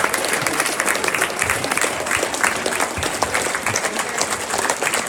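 Large crowd applauding steadily: many hands clapping in a sustained ovation for veterans.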